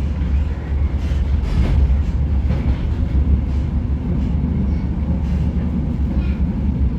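Passenger train running, heard from inside the carriage: a steady low rumble with faint irregular clicks from the wheels crossing the junction's track joints and switches.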